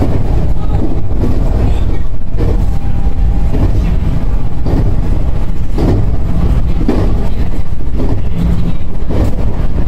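Electric passenger train running at speed, heard from inside the driver's cab: a loud steady rumble of motors and wheels on the rails, with faint knocks about once a second.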